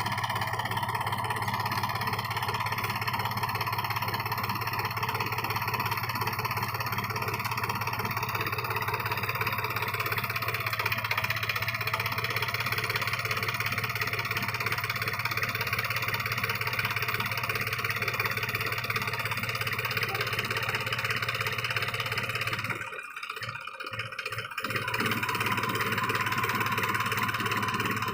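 New Holland 4710 tractor's three-cylinder diesel engine running steadily, with a brief drop in level about four-fifths of the way through.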